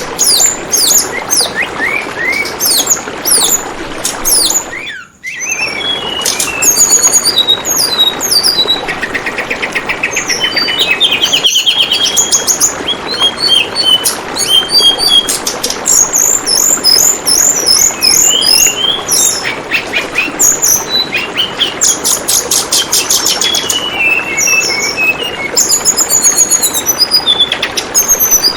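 Tledekan bambu songbird calling: rapid strings of high chirps and short trills, one after another, over steady babbling water. The sound drops out briefly about five seconds in.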